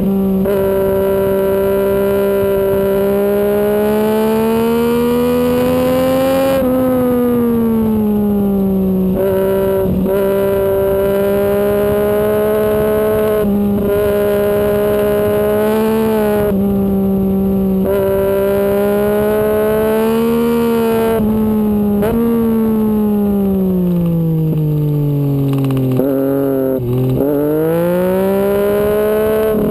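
Sport motorcycle engine at high revs on a racetrack, heard from the bike itself: the engine note climbs and drops abruptly at each upshift. Near the end the revs fall away under braking with quick downshift blips, then climb again on the way out of the corner, over steady wind rush.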